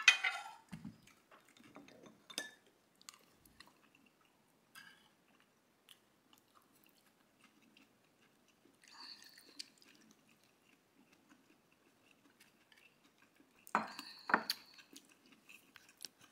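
A person chewing and eating, with scattered light clicks of chopsticks against dishes. Louder bursts come right at the start and again about fourteen seconds in.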